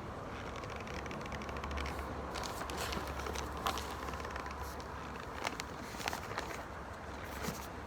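Mouth crunching dry corn starch, an uneven run of crackles and clicks, densest about a third of the way in with a few single clicks later, over a steady low hum.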